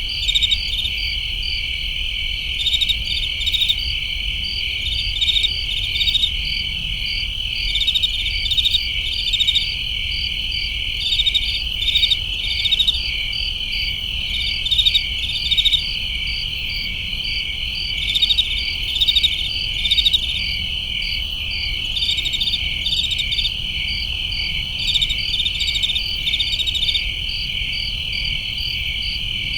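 A dense chorus of crickets chirping: a steady high trill under rapid, evenly pulsed chirps, with louder clusters of chirps coming every second or two.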